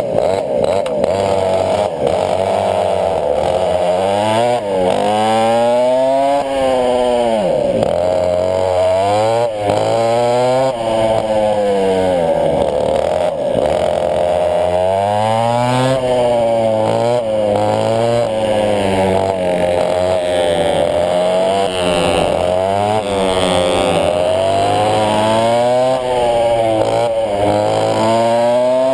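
Twin West Bend 820 two-stroke kart engines running hard, their note rising and falling again and again as the throttle is opened and closed.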